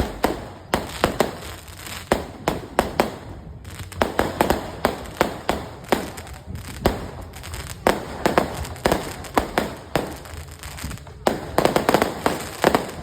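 Fireworks going off: a rapid, irregular series of sharp bangs and cracks, crowding together near the end.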